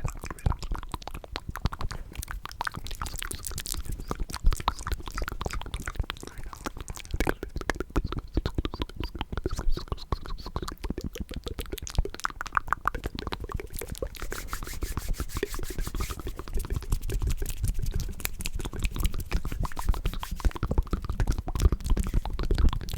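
Close-miked ASMR mouth sounds: a dense, continuous run of wet clicks and smacks from the lips and tongue.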